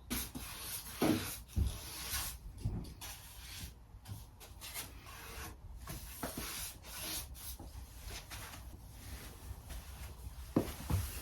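A brush being stroked over wood to spread a top coat: a run of irregular rubbing swishes.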